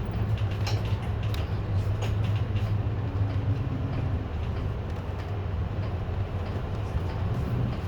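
City bus engine running low and steady, heard inside the cabin, with scattered light clicks and rattles.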